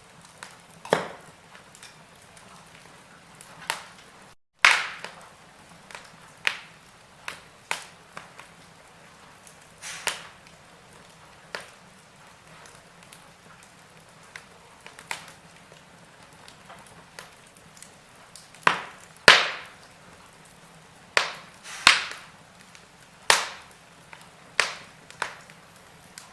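Wood fire in a fireplace crackling and popping: irregular sharp pops, a few much louder than the rest, over a faint steady hiss. The sound cuts out briefly about four seconds in, just before one of the loudest pops.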